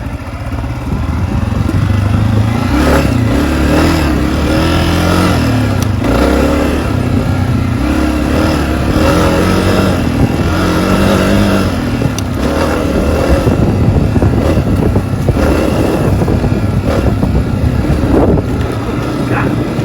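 Honda CRF250F dirt bike's air-cooled single-cylinder four-stroke engine running while being ridden, its revs rising and falling over and over as the throttle is worked.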